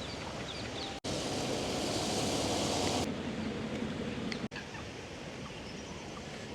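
Steady outdoor ambience, a hiss of distant traffic and air, with small birds chirping faintly now and then. The sound drops out completely for an instant about a second in and again about four and a half seconds in, and is louder and brighter between the first dropout and about three seconds in.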